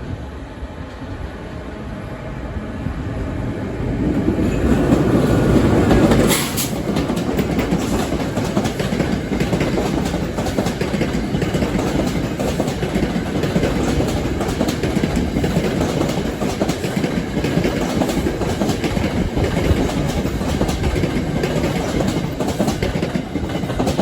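Train passing close by: the rumble builds over the first five seconds, with one sharp clack about six seconds in. It then runs on steadily as the wheels clack over the rail joints.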